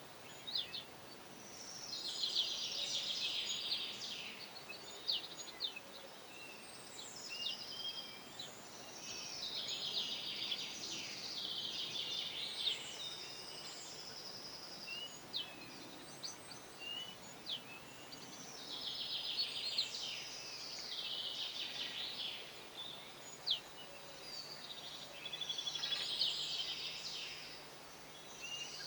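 A songbird singing: four dense, high-pitched phrases of about two to three seconds each, repeated every several seconds, with short single chirps between them.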